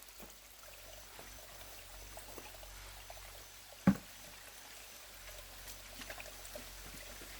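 A single sharp knock about four seconds in, over a faint hiss with scattered light ticks.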